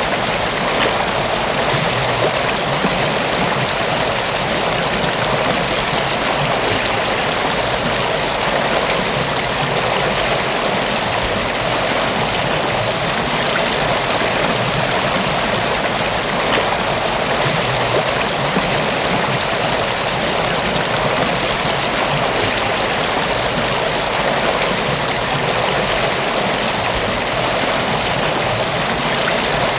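Mountain waterfall and stream water rushing steadily, an even unbroken roar of falling and splashing water.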